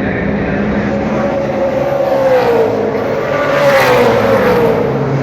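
Racing cars' engines at speed going past, their pitch falling as each car passes, several in succession.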